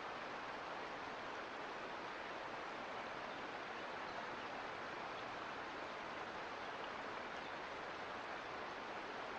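A mountain creek running, a steady even rush of flowing water with no change in level.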